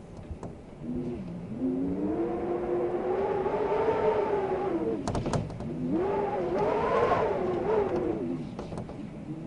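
Wind howling in two long gusts, a pitched moan that rises and falls over a rushing hiss, with a few sharp clicks between the gusts.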